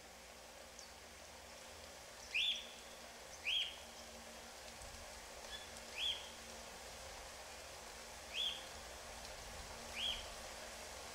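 A bird calling: five short calls, each sweeping sharply upward and then levelling off, a second or two apart, over a faint steady hiss.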